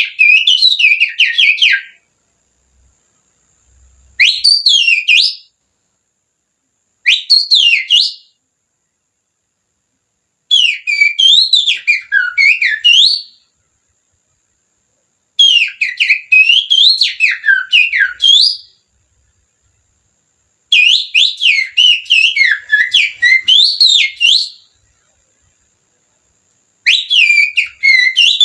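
Finger whistling through the little fingers that imitates an oriental magpie-robin's (kacer) song. It comes as rapid, swooping high whistled notes in about seven phrases of one to four seconds, with short pauses between them.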